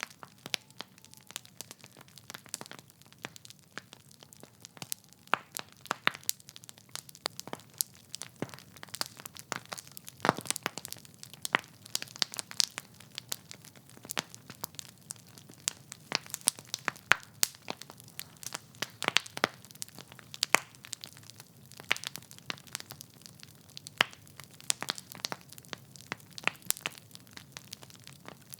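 Wood fire crackling: logs burning in a fireplace, with irregular sharp pops and snaps over a soft low rush of flame.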